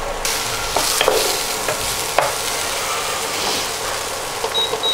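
Potato sticks frying in butter in a nonstick pan, a steady sizzle, while a spatula stirs them with a few sharp clicks against the pan. A few short high beeps sound near the end.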